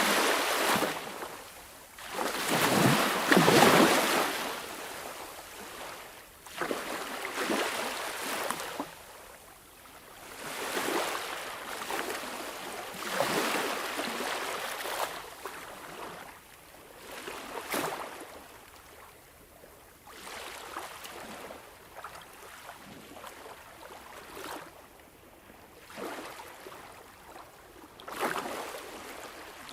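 Sea waves breaking and washing in, a swell of surf every few seconds, the loudest about three seconds in.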